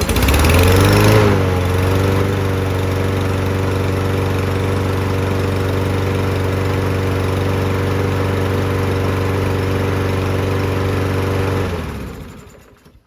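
Briggs & Stratton engine on a Toro walk-behind lawn mower starts, picks up speed in the first second, then settles into a steady, even run with its freshly fitted spark plug. It sounds spectacular. About twelve seconds in it shuts off and runs down.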